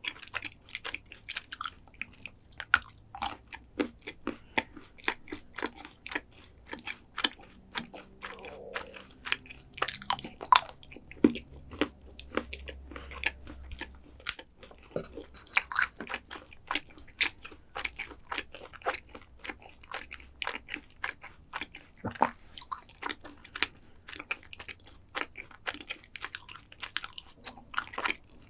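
Close-miked chewing and crunching of chocolate desserts, with dense, irregular crackling clicks of crisp bites and chews.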